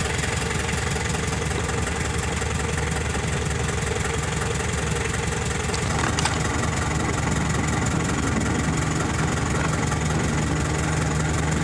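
A motor vehicle's engine running steadily with a low hum, a little stronger in the second half, with a single sharp click about halfway through.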